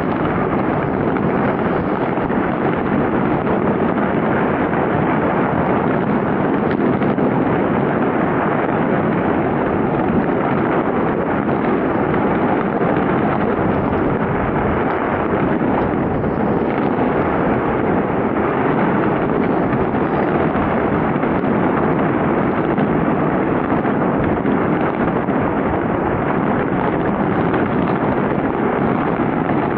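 Fireworks display: a steady, dense din of many bursts and crackles running together, with no single bang standing out.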